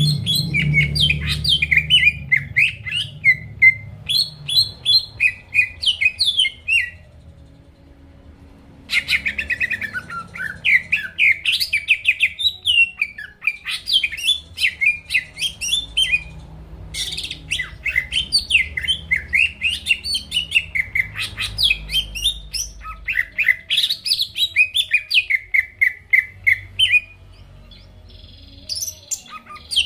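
Cucak ijo (greater green leafbird) singing a fast, varied run of chirps and whistled notes. The song breaks off for about two seconds a quarter of the way in, and pauses again shortly before the end.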